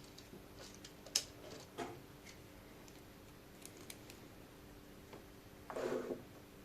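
Light clicks and taps of small plastic parts and screws being handled and fitted by hand, with a short scraping rub near the end.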